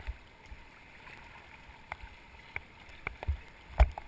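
Raft paddles stroking through river water, with a series of sharp splashes and knocks, the loudest near the end, over the steady rush of the river.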